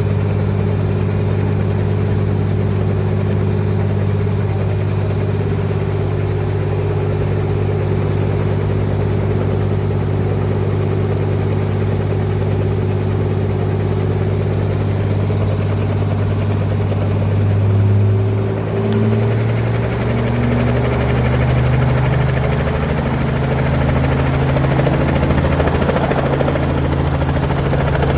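Helicopter engine and rotor running with a steady low hum. About 18 seconds in the pitch shifts and wavers, and more rushing noise comes in on top as the rotor sound changes.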